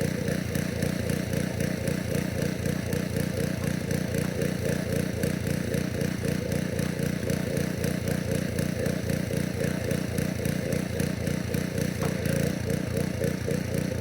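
Pressure washer's small engine running steadily while water sprays through a radiator cleaning wand, with a constant hiss of spray.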